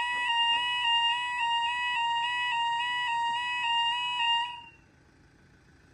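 Level crossing audible alarm sounding a high, screechy two-tone warble that steps rapidly between two close pitches. It cuts off about four and a half seconds in.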